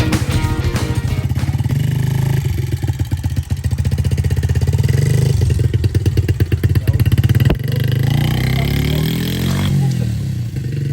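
Small motorbike engine running under throttle with rapid firing pulses, a sharp knock about seven and a half seconds in, then the revs rise and drop back near the end. The engine is being held on the throttle by a first-time rider.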